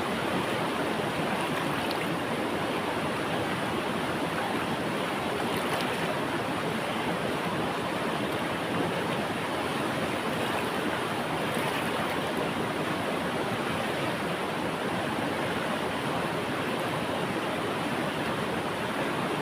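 Flowing river water, a steady even rushing.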